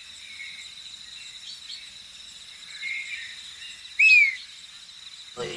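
Insects trilling steadily at a high pitch, with a few faint bird chirps and one clear, falling bird call about four seconds in.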